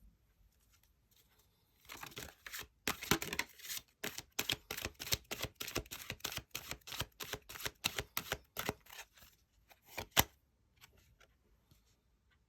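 Tarot cards being shuffled by hand: a quick run of card slaps and clicks, about four a second, ending with one sharp snap.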